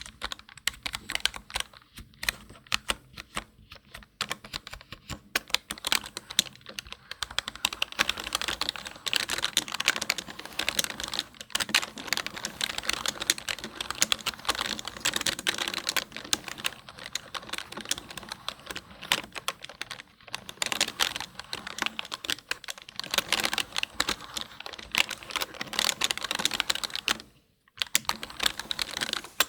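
Typing on a computer keyboard: a dense, continuous run of key clicks. It is sparser at first and quickens into fast typing after a few seconds, with one brief pause near the end.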